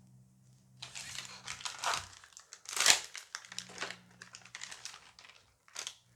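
Foil wrapper of a Dice Masters booster pack being torn open and crinkled: a run of rustles with one sharp, loudest crinkle about three seconds in and a shorter one near the end.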